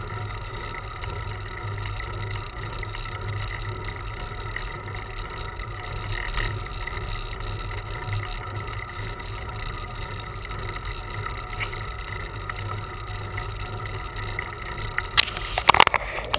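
Steady road and wind noise of a bicycle ride, heard through a bike- or rider-mounted camera, with a low rumble and a faint steady whine. Near the end, sharp clattering rattles break in, as over a bump or rough pavement.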